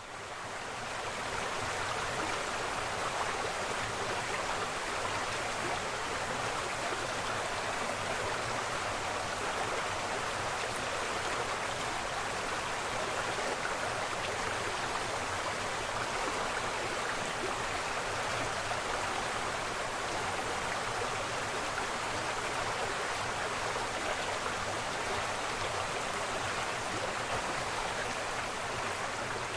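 Waterfall: steady rushing, splashing water, fading in over the first second and then holding constant.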